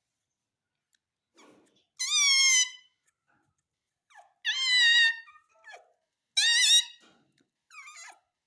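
Pet parrot giving three loud, high-pitched calls, each under a second, with a wavering pitch, and a few faint chirps between them.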